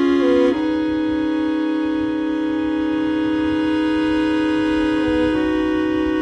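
Background music of sustained organ-like keyboard chords, with no singing. The chord changes about half a second in and again near the end.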